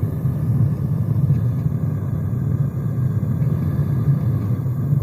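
Gas burner of a metal-melting furnace running with a steady, low rumble. The air mixture has just been set with the burner's air slide at about 2.75 on the pressure gauge, and the owner judges the mix about right.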